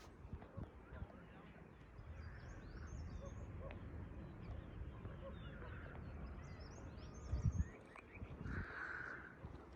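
Faint birdsong, a few short chirps that glide in pitch, over a steady low rumble, with one dull thump about seven and a half seconds in.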